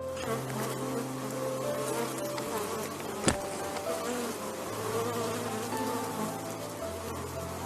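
Insects buzzing as a dense, steady drone over quiet background music with held low notes. A single sharp click comes about three seconds in.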